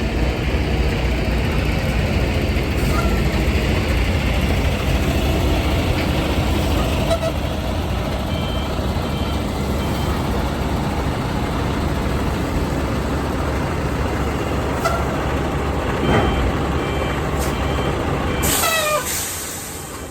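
Semi-truck's diesel engine running with a steady low rumble, with short beeps repeating at two pitches twice along the way. Near the end a loud burst of air hiss from the air brakes, and the rumble drops away as the truck comes to a stop.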